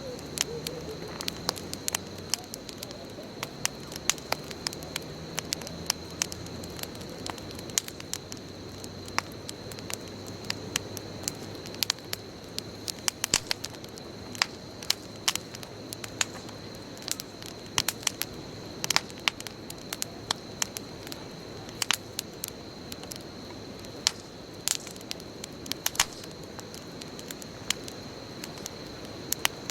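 Wood bonfire burning, with frequent irregular sharp crackles and pops from the burning wood over a steady low rush of the flames.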